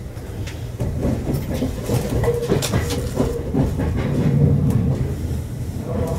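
Meitetsu limited express electric train running, heard from inside the passenger car: a steady low rumble with the wheels clicking irregularly over rail joints.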